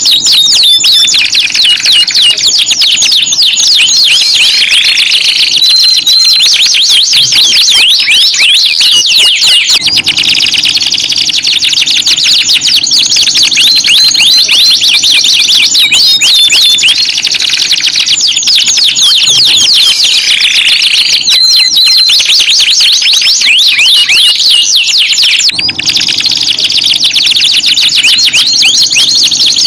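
Domestic canary singing: loud, fast, high-pitched trills and rolls, one phrase running into the next. There are short breaks about ten seconds in and near the end, and the same passage comes round again about every fifteen seconds.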